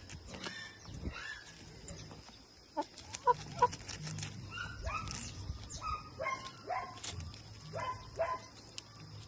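Farm poultry calling: a run of short, clipped calls starting about three seconds in, with two sharp clicks near the start of the run.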